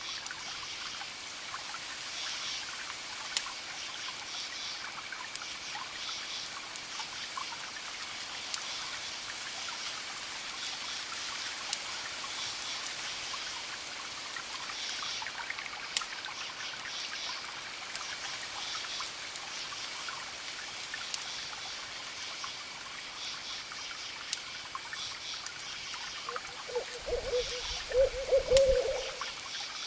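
Campfire crackling with scattered sharp pops, crickets chirping steadily, and a soft, even wash of distant ocean waves. Near the end a short low-pitched call rises above the rest, the loudest sound here.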